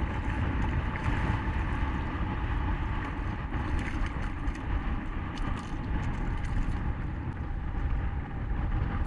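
Strong wind buffeting the microphone, a heavy, gusting low rumble over a steady hiss of wind and water on the open bay, with a few light clicks in the middle.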